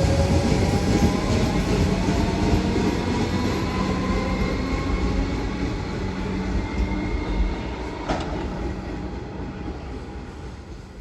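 A train running past and fading away, loud at first and dying down over several seconds, with faint whining tones that slowly rise. A single sharp click about eight seconds in.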